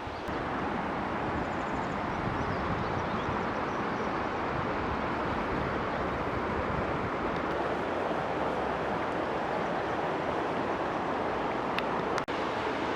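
Mountain stream water rushing steadily over rocks, with one brief break about twelve seconds in.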